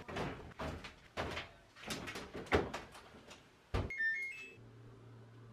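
Household clunks and knocks, like cupboards or doors, five in about four seconds. Then a few short high electronic beeps, and a steady low hum sets in and keeps running.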